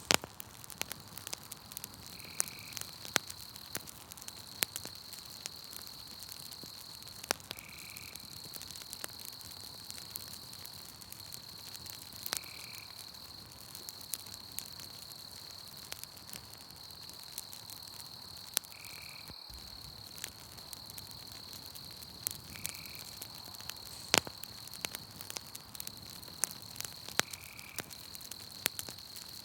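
Campfire crackling, with sharp pops scattered throughout, over a steady high trill of night insects that breaks off now and then and resumes. A short higher chirp comes back about every five seconds.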